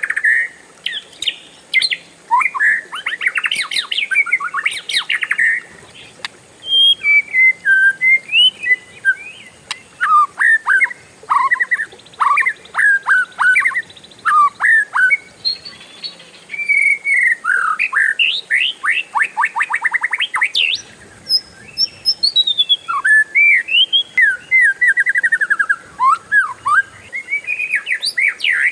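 Oriental magpie-robin (kacer) singing a long, varied song: fast rattling trills run together with slurred whistled phrases, with only short pauses between bursts.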